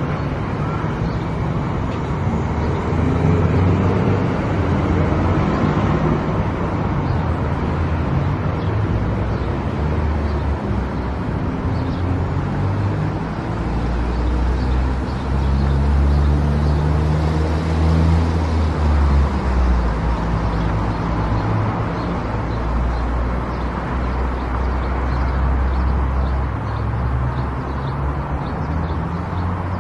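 A car driving at highway speed: steady tyre and road noise over a low engine drone.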